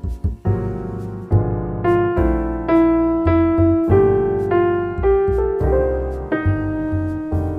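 Background piano music: a slow melody of single notes, each struck and fading, over low held bass notes.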